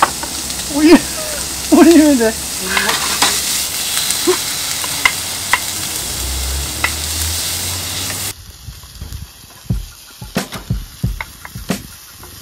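Food sizzling as it fries in a pan, a dense steady hiss with light clicks and two short pitched sounds about one and two seconds in. About eight seconds in the sizzle cuts off suddenly, leaving scattered light knocks and clicks.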